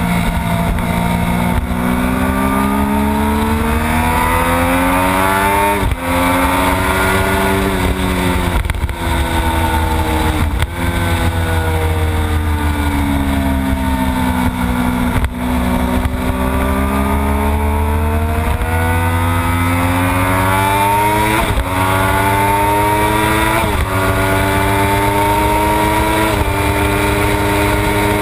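Triumph Daytona 675's three-cylinder engine at high revs on a racetrack, heard from onboard: the pitch climbs steadily and drops suddenly at each of several upshifts, and sinks away twice as the bike slows for corners.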